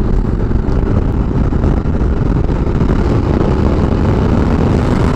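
Steady wind rush and engine noise from a Ducati Multistrada 1200S motorcycle at riding speed, picked up by a microphone on the rider's helmet.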